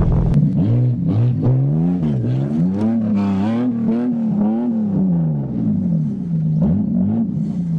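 Holden Commodore's engine revving up and down over and over as the car is driven hard into a loose dirt rut, its wheels spinning and throwing up dust.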